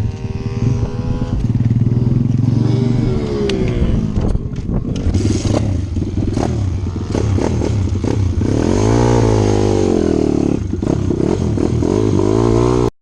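Pit bike engines running hard, the pitch rising and falling repeatedly as the throttle is opened and closed. The sound cuts off suddenly near the end.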